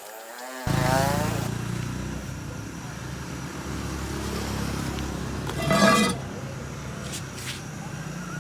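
A motor's low, steady rumble starts suddenly about a second in and keeps running, with a brief, louder pitched sound near six seconds.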